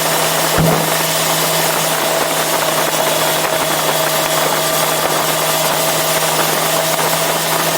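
Yamaha FZ6R's 600 cc inline-four engine running at a steady pitch, with a constant hiss over it and a brief low thump about half a second in.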